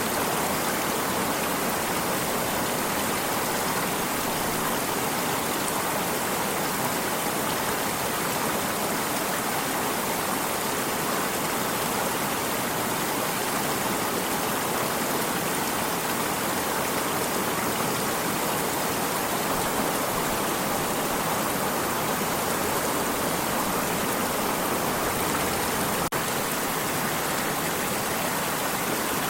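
Steady rush and babble of a flowing stream, an even, unbroken sound of running water.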